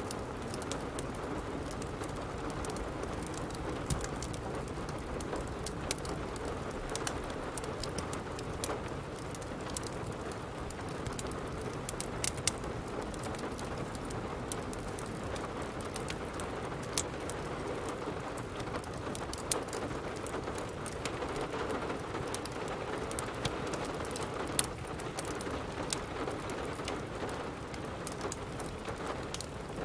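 Steady rain falling, mixed with a crackling wood fire whose sharp, irregular pops and snaps come every second or so.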